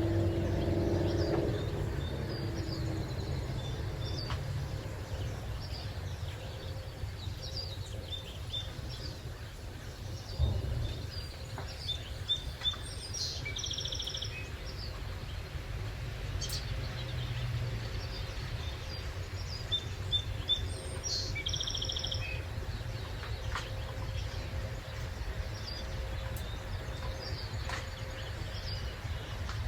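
Songbirds chirping and trilling in short, scattered phrases over a steady low background rumble.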